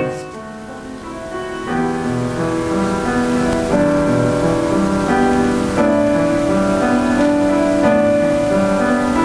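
Slow piano music with long held chords, softer at first and fuller from about two seconds in.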